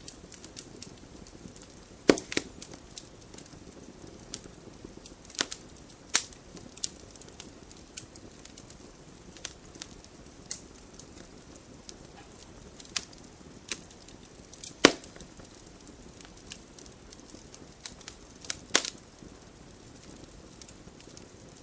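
Wood fire burning in a fireplace: a low steady hiss with irregular crackles and sharp pops of burning logs, the loudest pops about two seconds in, midway and near the end.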